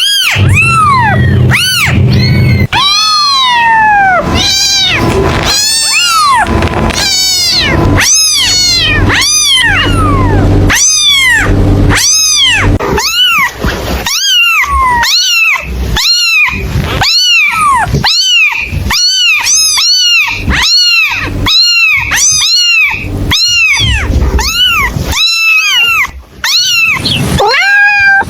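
Kitten meowing over and over, a quick run of high calls that each rise and fall, about two a second in the second half.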